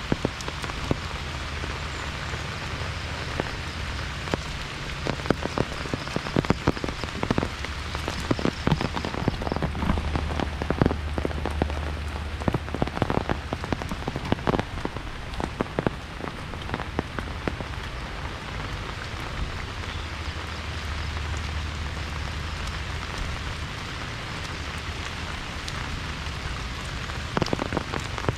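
Heavy rain falling steadily, with many sharp drop impacts close by and a low wind rumble that swells twice.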